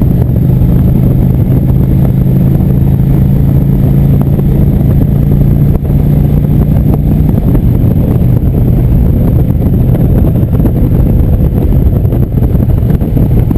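Motorcycle engine running at a steady cruising speed under heavy wind rumble on the microphone; the engine note eases off about seven seconds in.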